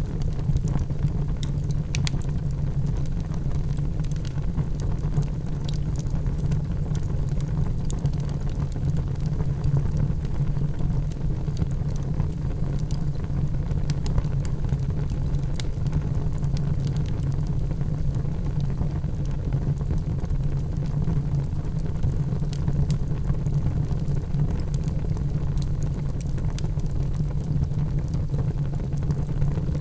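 Wood fire burning in a fireplace: a steady low rumble with small crackles and pops scattered throughout.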